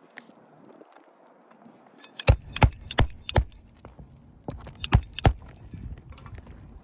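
A run of sharp metallic clinks and knocks, about five in quick succession a little over two seconds in, then three more about a second later, over a low rumble.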